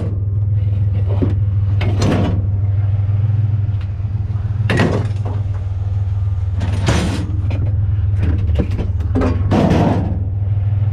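Heavy cast-iron brake rotors clanging one after another as they are thrown onto a scrap pile, about seven hits at irregular intervals, some ringing briefly. A truck engine idles steadily underneath.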